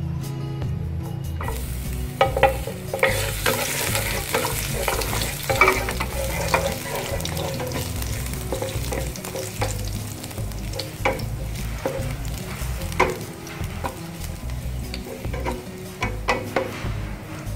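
Chopped garlic sizzling in hot oil in a nonstick frying pan, starting about a second and a half in as it hits the oil. A wooden spatula stirs it, with frequent clicks and scrapes against the pan.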